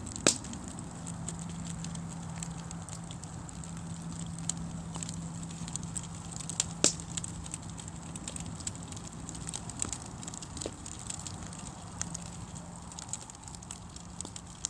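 Campfire of a burning wooden fruit crate crackling, with sharp pops and snaps scattered throughout; the loudest pops come just after the start and about seven seconds in. A low steady hum sits underneath for most of it.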